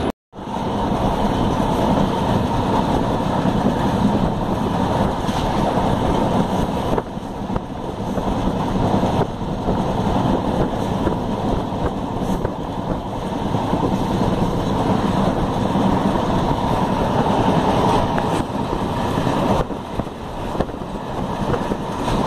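Train running at speed, heard from inside a coach through an open barred window: a steady rumble of wheels on the rails mixed with wind on the microphone. The sound cuts out for a moment right at the start, then carries on steadily.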